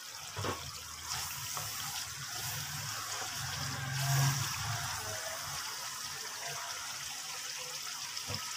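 Onion, spice and tomato masala with a little water sizzling and bubbling in a nonstick frying pan. A spatula stirs and scrapes through it for the first half, with a few light knocks near the start.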